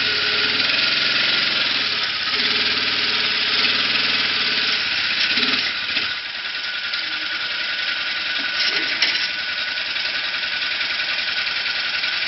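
A vehicle engine running steadily under load, with a rough, rattling clatter.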